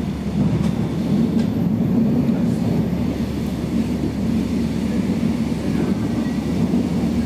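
Passenger train running along the track, heard from inside the carriage: a steady low rumble of wheels and running gear.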